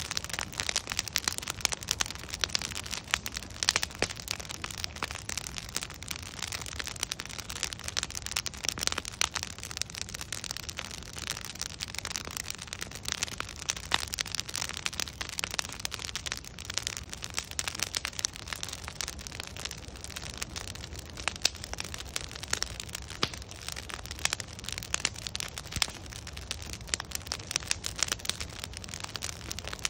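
Wood fire of burning logs crackling steadily, with dense, irregular snaps and pops over a soft hiss and low rumble of the flames.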